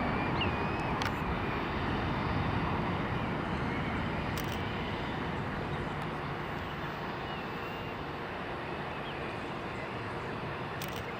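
Distant rumble of a departing McDonnell Douglas MD-11 trijet's engines after takeoff, slowly fading as it climbs away.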